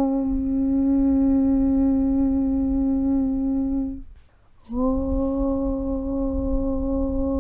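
A voice chanting a long, steady "Aum" hum on one low note. It fades out about four seconds in, and after a half-second breath a new "Aum" starts on the same note. A low rumble runs underneath.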